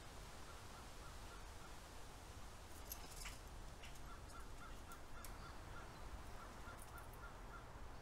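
Outdoor backyard ambience with a bird calling in two runs of short, evenly spaced high notes, about four a second, the second run longer. A few sharp clicks fall near the middle, over a faint steady low rumble.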